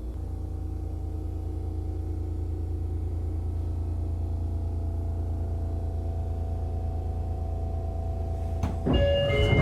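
Sotetsu 8000-series electric train standing at a station: its onboard equipment gives a steady low hum. About nine seconds in, short high chime tones and a clatter start, the doors beginning to close.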